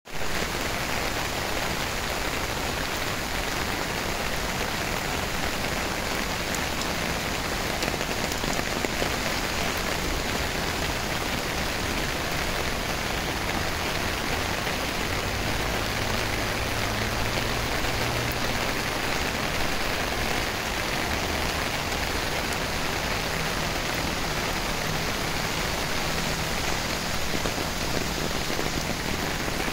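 Steady rain falling on paving and grass, an even hiss that does not let up.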